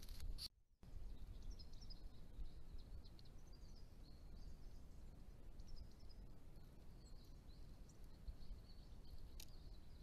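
Faint, high-pitched calls of small birds, a scatter of short chirps and trills for several seconds from about a second in, over a steady low rumble of background noise. The sound drops out for a moment near the start, and a single sharp click comes near the end.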